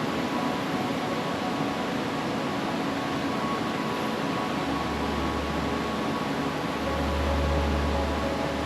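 Steady rushing noise with faint sustained tones running through it; a low hum comes in about five seconds in and strengthens near the end.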